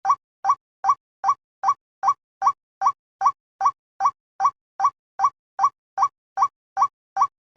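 A short, bird-like chirp that rises in pitch, repeated at a perfectly even pace of about two and a half a second, each note the same as the last.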